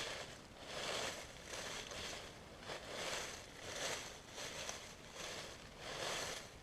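Footsteps crunching through dry leaf litter at a walking pace, about one step a second.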